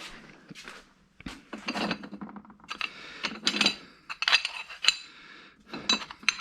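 Metal brackets clinking against one another as they are picked up and handled: a string of irregular, sharp clinks.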